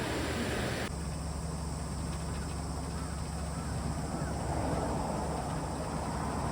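Pressure-type industrial exhaust fan running with a steady low hum and a rush of air. About a second in, the high hiss drops away abruptly, leaving the steady hum.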